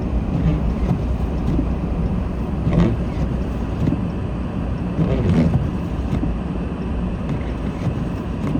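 Steady low rumble of a car heard from inside the cabin on a snowy road, with two brief louder thumps about three and five seconds in.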